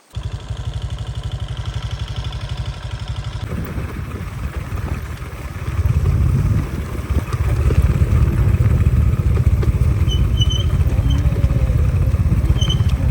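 A small engine running steadily with a low, fast pulse. It starts abruptly and gets louder about six seconds in.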